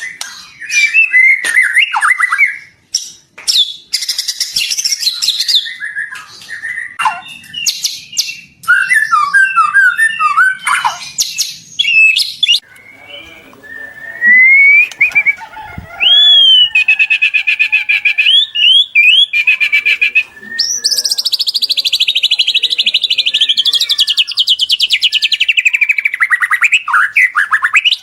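White-rumped shama (murai batu) singing a loud, varied song of whistles and chirped phrases. About halfway through comes a fast, even trill, then a long trill that slides slowly down in pitch near the end.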